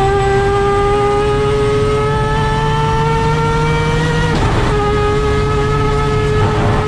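Mazda RX-7's 20B three-rotor peripheral-port rotary engine at full throttle, heard from inside the car, its pitch climbing steadily through a gear. About four seconds in there is a short crackling break and the pitch drops a little as it shifts up, then it pulls on again.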